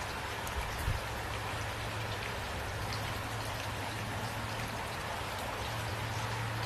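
Steady rain falling, with scattered individual drops ticking through the hiss and a steady low hum underneath. A brief low thump comes about a second in.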